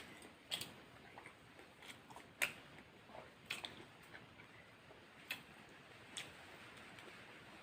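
A person eating fried chicken and rice close to the microphone: irregular sharp crunchy clicks and mouth smacks, about one a second, from biting and chewing.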